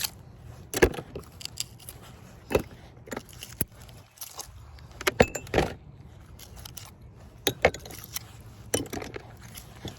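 Scrap metal, nails and washers clinking sharply as they are handled and pulled off a magnet-fishing magnet: about nine separate clinks at uneven intervals.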